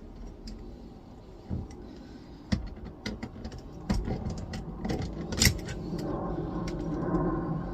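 A hand tool working a tight nut loose on a flatscreen monitor's metal frame, with irregular small metallic clicks, taps and scrapes. The sharpest click comes about five and a half seconds in, and a steadier low hum comes in near the end.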